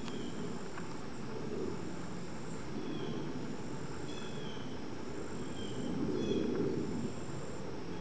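Outdoor bird-feeder ambience: small birds give short high chirps every second or so, over faint thin high-pitched trills and a low steady rumble that swells briefly about six seconds in.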